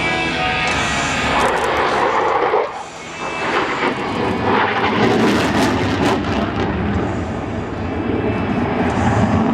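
Jet noise from an F-16C Fighting Falcon making a low pass, loud throughout, with a brief dip about three seconds in before it swells again.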